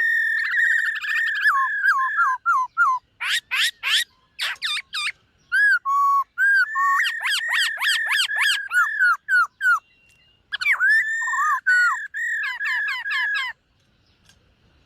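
Black-throated laughingthrush singing a long run of varied whistled phrases: rapid repeated notes and slurred, falling notes. The song pauses briefly about ten seconds in and again near the end.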